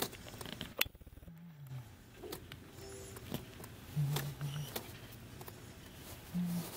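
Freight cars rolling slowly past on the track, their wheels and couplers giving scattered sharp clicks and creaks over a low rumble, with a few short low-pitched hums, two in quick succession about four seconds in and one more near the end.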